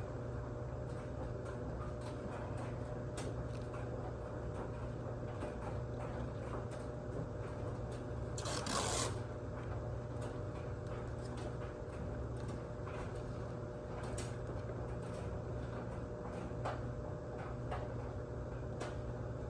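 Tape being pulled off the roll with one short tearing rip a little before halfway, amid quiet rubbing and small clicks as it is pressed down around a car headlight, over a steady low hum.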